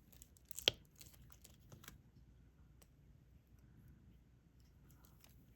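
Soft, scattered clicks and taps of a diamond painting pen picking up resin drills and pressing them onto the sticky canvas, with one sharper click under a second in.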